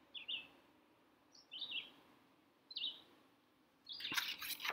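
A songbird repeats a short, falling chirp three times, just over a second apart. A brief rustle follows near the end.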